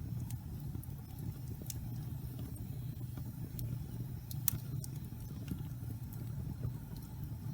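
Logs burning in a fireplace: a steady low rumble of flame with scattered sharp crackles and pops. The loudest pop comes about four and a half seconds in.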